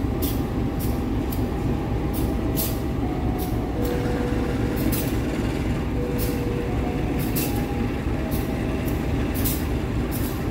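Passenger train rolling slowly out of the station on the adjacent track: a steady low rumble with faint whining tones and a string of sharp clicks, at times about two a second.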